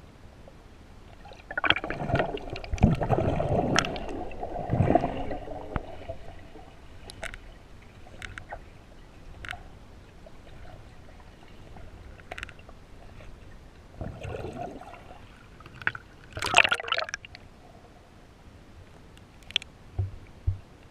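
Water sloshing and gurgling in irregular bouts, loudest about two to six seconds in and again around fifteen to seventeen seconds in, with scattered small clicks between.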